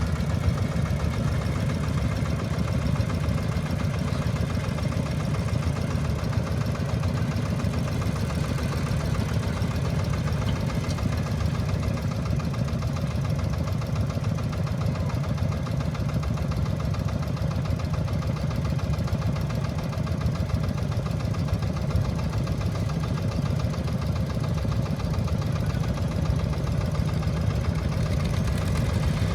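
Small two-wheel tractor's single-cylinder diesel engine running steadily with a rapid knocking beat.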